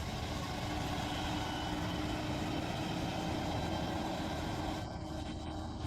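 Steady motor vehicle running, with an even engine hum and road noise.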